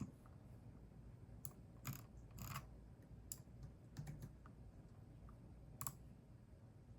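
Sparse typing on a computer keyboard: a handful of separate keystroke clicks at uneven intervals, stopping near the end.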